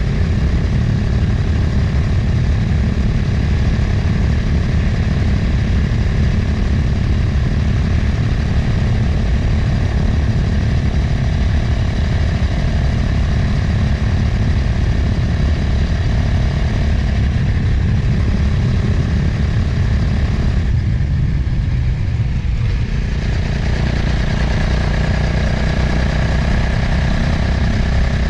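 Motorcycle engine running on the move, with heavy wind noise rushing over the microphone. The engine sound drops away for about two seconds around three-quarters of the way through, then picks back up.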